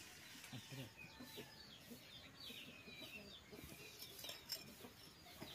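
Faint chicken clucks and bird calls, a string of short falling chirps.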